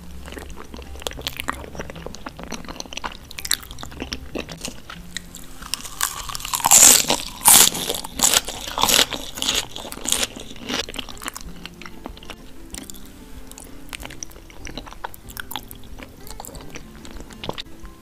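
Close-miked chewing of fresh lettuce leaves, crisp and crunchy, with the loudest, densest crunching about six to eleven seconds in, then quieter chewing.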